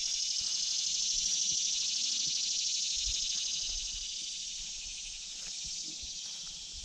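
Dense high-pitched insect chorus, a steady shrill buzz that swells slightly and then eases toward the end.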